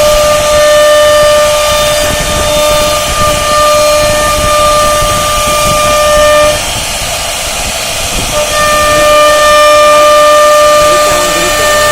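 CNC router carving wood: a steady high whine from the spindle over the rough noise of the bit cutting. The whine drops out for about two seconds in the middle, then comes back.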